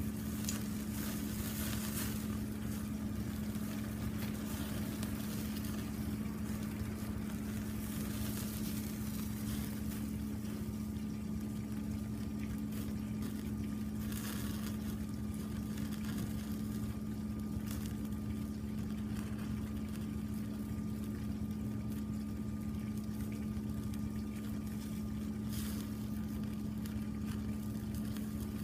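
A steady, engine-like mechanical hum at one unchanging pitch, with a few brief clicks over it.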